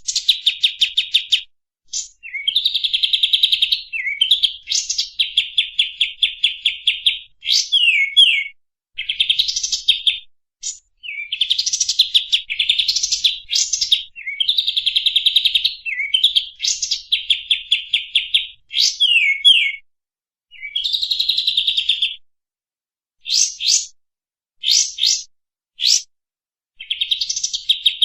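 Recorded songbird song played as a masteran (song-tutoring) track: fast trilled phrases of rapidly repeated high notes, mixed with quick upward sweeping whistles. The phrases run a second or two each, with short pauses between them and longer pauses in the later part.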